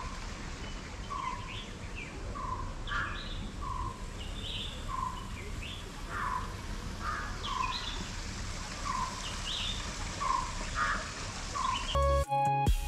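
Birds calling in a garden: one short call repeats evenly about every second and a half, with higher chirps from other birds in between, over a steady outdoor hiss. Background music cuts in just before the end.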